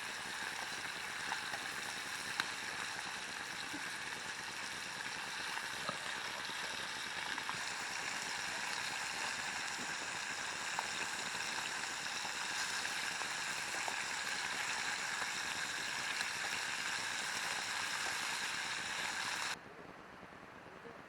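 Food frying in a pan: a steady sizzling hiss with a few faint pops. It cuts off abruptly near the end to a quieter hiss.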